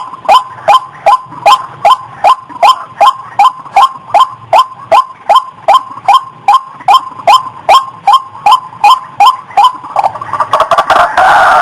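Female rail (ayam-ayaman / ruak-ruak) calling in breeding condition: a fast, even run of short repeated call notes, about two and a half a second. Near the end it changes to louder, denser, continuous calling.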